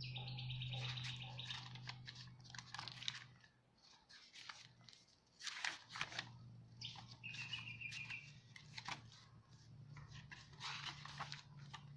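Paper pages, tags and card of a handmade journal being handled, with irregular rustling and crinkling. Two short high chirping trills from a bird come through, one at the start and one about two thirds of the way in.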